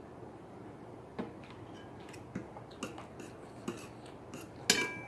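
Metal eating utensil clicking and scraping against a bowl about six times, starting about a second in; the loudest clink, near the end, rings briefly.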